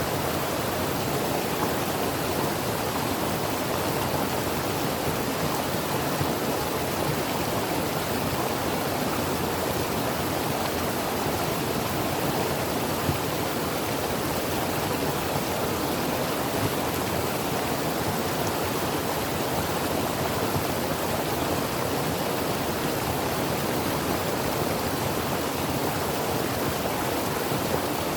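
Creek water flowing over rocks: a steady, even rush of running water.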